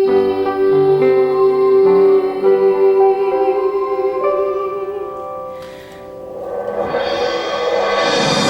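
A female singer holds one long final note with vibrato over accompaniment chords that change beneath it. The note fades out about five seconds in, and the backing music swells up loudly near the end.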